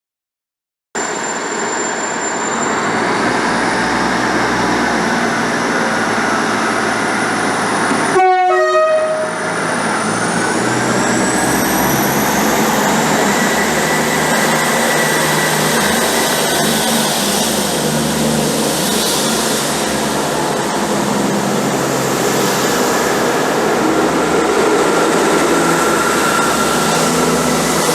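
Diesel multiple unit running at a station platform, its engine and wheels making a steady noise, with a short horn blast about eight seconds in.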